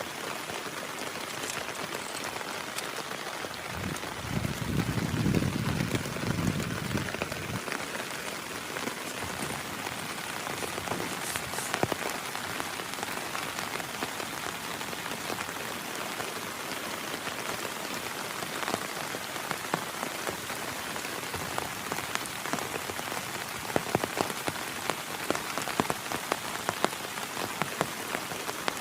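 Heavy rain falling steadily, with many single drops striking a nearby surface and some louder drops near the end. A low rumble swells and fades about four to seven seconds in.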